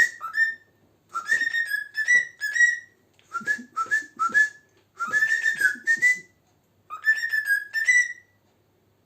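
Cockatiel whistling a learned tune: phrases of short, clear notes, many sliding upward in pitch, with brief pauses between phrases, stopping shortly before the end.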